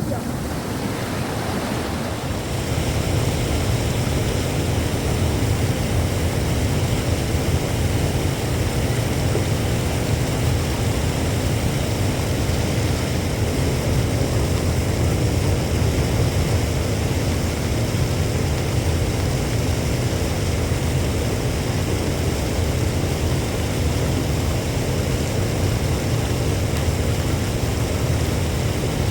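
Steady storm noise: wind buffeting the microphone as a continuous low rumble, with an even hiss of heavy rain over it.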